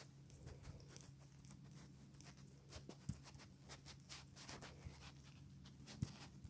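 Faint, irregular taps and light scratches of fingertips on a phone touchscreen, over a steady low hum.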